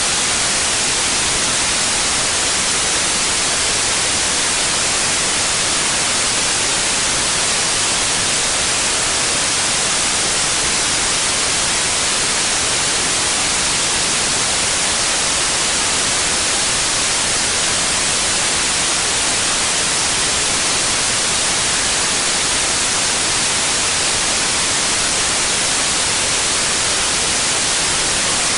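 Steady white noise: a constant, even hiss, brightest in the upper range, with no change throughout.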